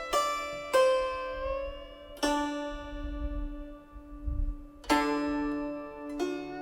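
Steel-string guzheng playing a slow Chaozhou folk melody in the huo san wu mode: a handful of single plucked notes and a small chord, each left to ring out, with one note pressed slightly upward in pitch after it is plucked.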